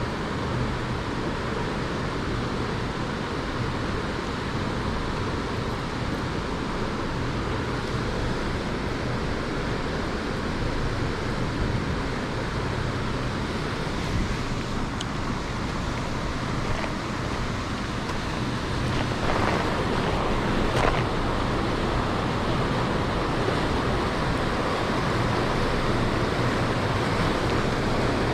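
Mountain stream water rushing over rocks, a steady, even rush that grows slightly louder about two-thirds of the way through.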